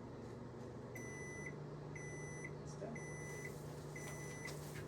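Samsung over-the-range microwave oven running with a steady hum, then beeping four times, about once a second, each beep about half a second long: the end-of-cycle signal that the timer has run out.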